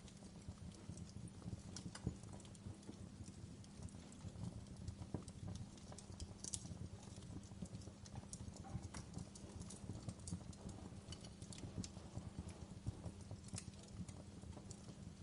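Wood log fire in a fireplace crackling, with irregular sharp pops and snaps over a low steady rumble.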